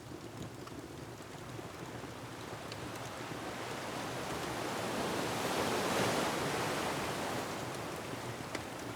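An ocean wave swelling to a crash about six seconds in and washing back, over a steady rushing surf, with a couple of faint wood-fire crackles.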